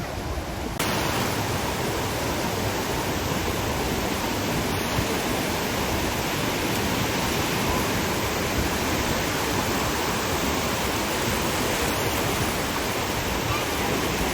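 Steady rushing wash of ocean surf, starting abruptly about a second in.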